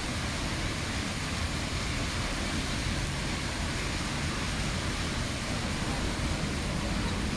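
Heavy rain falling steadily on a wet city street, mixed with the steady noise of car traffic on the wet road.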